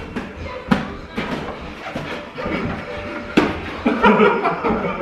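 Boxing gloves landing in light mass sparring: a few sharp, irregular slaps, the loudest about two-thirds of a second and three and a half seconds in, with people's voices and chuckling under them.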